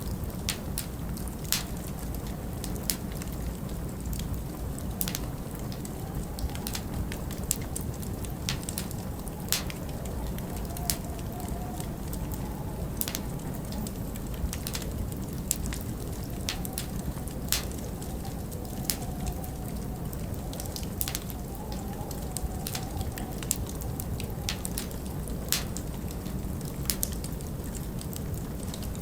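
Log fire crackling with irregular sharp pops over a steady low rumble of storm wind, with a faint wavering wind whistle coming and going.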